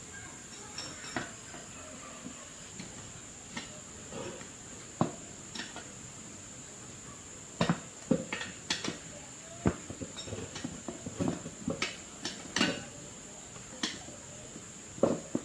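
Irregular clinks and knocks of small metal objects being handled, sparse at first and busier from about halfway through.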